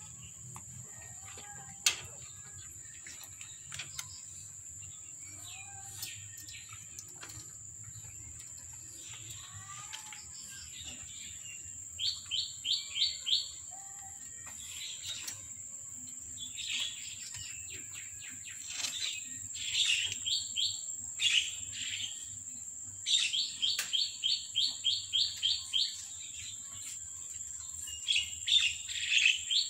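Small birds chirping. From about twelve seconds in come several runs of rapid, evenly repeated high chirps, about four to five a second, each run lasting a second or a few seconds. A thin, steady, high-pitched whine runs underneath throughout.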